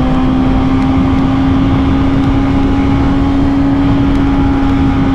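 Motorcycle engine running steadily at highway cruising speed, its pitch held even, under heavy wind rush.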